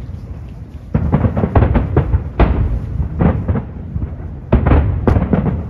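Aerial firework shells bursting in rapid volleys of bangs with a rolling rumble: one run of bursts begins about a second in, and a second cluster follows near the end after a short lull.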